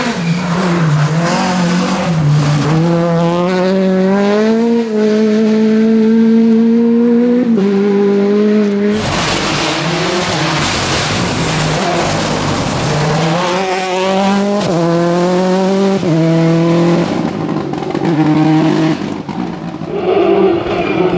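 Rally car engines revving hard and accelerating, the pitch climbing and dropping back with each gear change. A stretch of loud tyre and skid noise comes in the middle.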